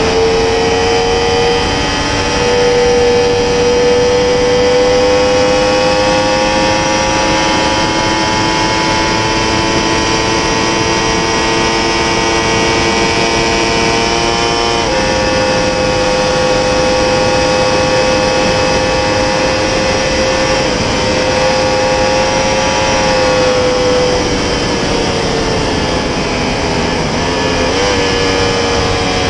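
A 2020 Yamaha R1's crossplane inline-four running hard in fifth gear at around 300 km/h, heavy wind rush all the way. The engine note climbs slowly for about fifteen seconds and then holds steady. It falls away as the throttle eases, and a downshift near the end sends the revs up again.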